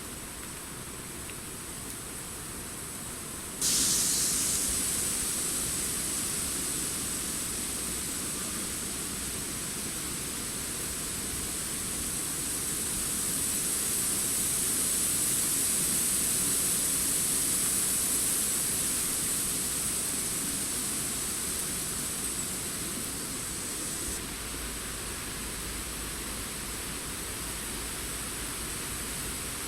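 Steady hiss of wind through forest foliage, no birdsong to be heard; it turns suddenly louder and brighter a few seconds in and eases back somewhat later on.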